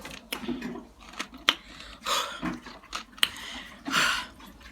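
Someone eating a meal: several sharp clicks of a utensil against a dish, mixed with chewing and two short noisy bursts.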